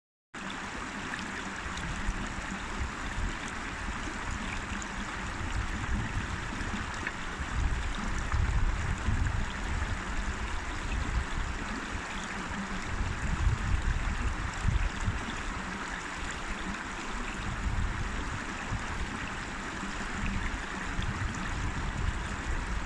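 River water flowing, a steady rushing with an uneven low rumble underneath.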